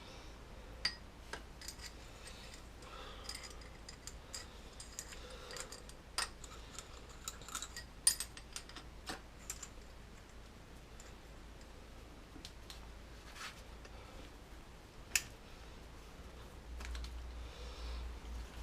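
Scattered light clicks and metallic clinks of hand tools and parts being handled, at irregular moments, the loudest about eight seconds and fifteen seconds in.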